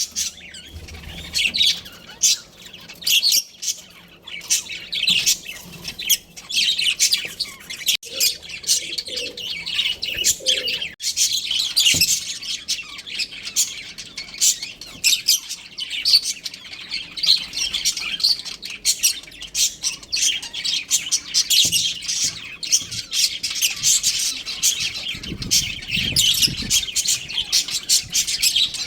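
Budgerigars chirping: a busy, unbroken stream of quick high-pitched chirps from several birds at once.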